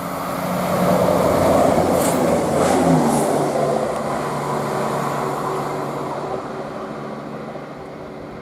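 CrossCountry Class 170 Turbostar diesel multiple unit passing at speed. Its diesel engine note and wheel noise swell to a peak about a second or two in, the engine pitch drops as it goes by, and the sound then fades away.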